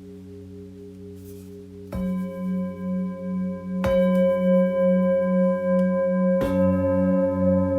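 Singing bowls ringing, struck three times, about two, four and six and a half seconds in, each strike adding its own set of long tones over those still sounding. The tones pulse with a slow wobble as they sustain.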